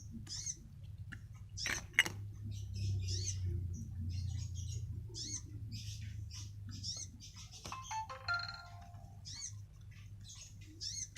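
A small bird chirping over and over in short, high, arched chirps, over a steady low hum, with a few sharp clicks.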